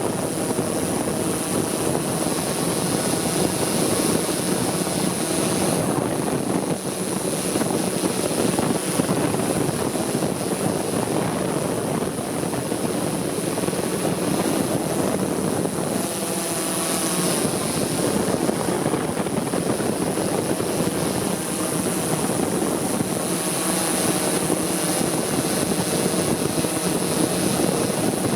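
Multicopter drone's propellers and motors buzzing steadily in flight, with a thin high whine, the buzz wavering in pitch for a moment in the middle.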